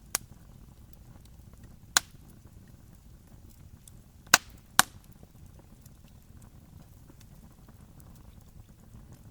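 Wood campfire burning with a low steady crackle, broken by four sharp pops of burning wood: one at the start, one about two seconds in, and two close together about half a second apart in the middle.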